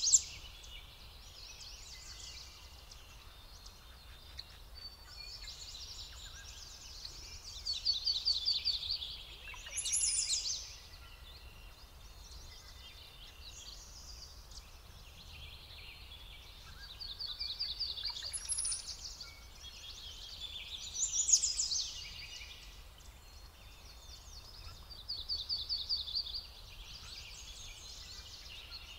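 Songbirds singing in a chorus, with louder phrases of fast trilled notes standing out every few seconds.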